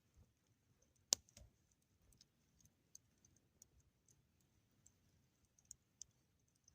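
Near silence with scattered faint sharp clicks, one louder click about a second in.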